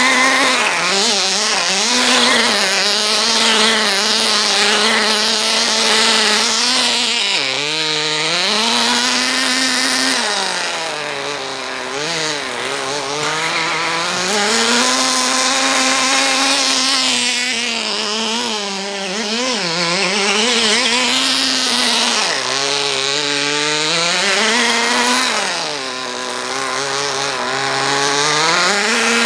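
Small nitro engine of a Kyosho Sandmaster 10 RC buggy running loudly, its speed rising and falling again and again as the throttle is worked.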